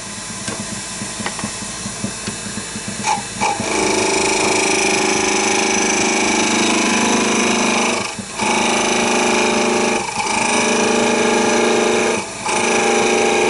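Wood lathe running while a turning tool cuts in to deepen a groove on the spinning wood. From about four seconds in the cut gets louder and steady, with a held pitch, and it breaks off briefly three times as the tool is lifted.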